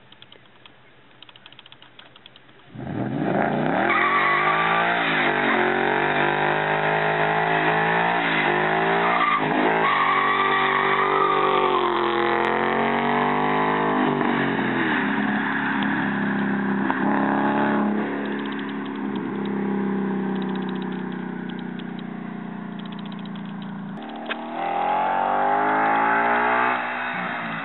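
2011 Ford Mustang GT's 5.0 L V8 through Magnaflow muffler-delete axle-back exhaust, doing a burnout: it idles faintly, then about three seconds in is revved hard and held at high revs that rise and fall for some fifteen seconds, drops to a lower steady rev, and is revved up once more near the end.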